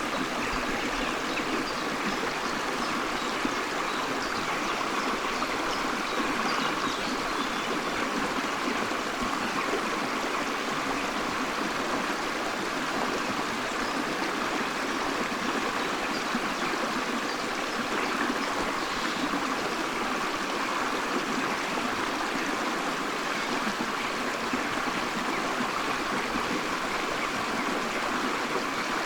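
Forest stream flowing steadily, a continuous even rush and trickle of water over stones.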